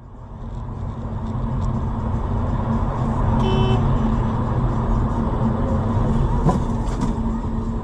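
Vehicle engine and road rumble picked up by a dashcam, steady and loud, with a brief pitched tone about three and a half seconds in and two sharp knocks near the end.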